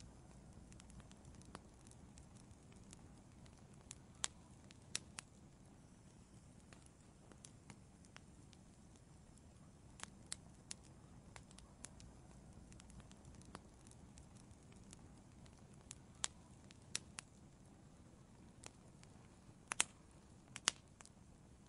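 Wood burning in an outdoor fireplace, crackling: irregular sharp pops and snaps over a faint, steady low rush, with the loudest pops near the end.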